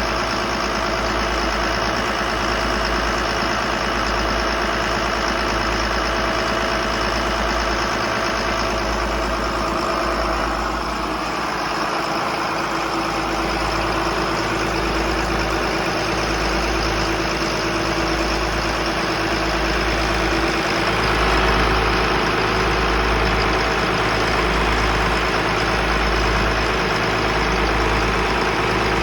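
Twin diesel engines of a Bayliner 4788 motor yacht running steadily under way, with a regular pulsing throb in the low end. The sound shifts about a third of the way through and gets a little louder about two-thirds through.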